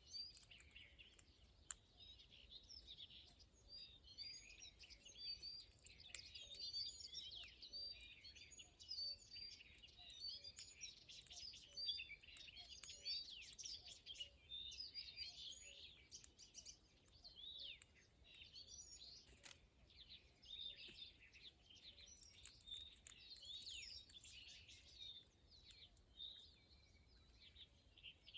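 Many small birds chirping and twittering, faint and continuous, many calls overlapping at once.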